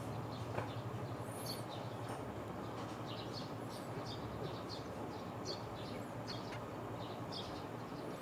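Sparrows chirping: short, high chirps repeating irregularly over a low steady hum.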